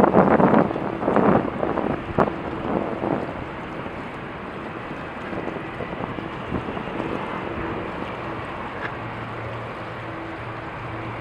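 Wind buffeting the microphone in loud gusts that die down after the first few seconds, leaving a steady outdoor background with a faint low engine hum.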